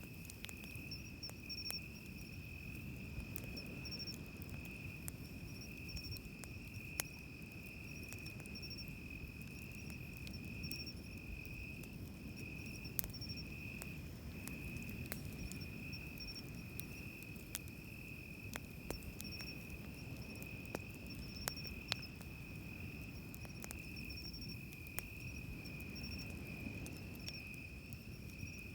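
Crickets trilling steadily in a high, pulsing chirr, over the low wash of waves on the beach. Now and then a wood campfire gives a sharp crackle or pop.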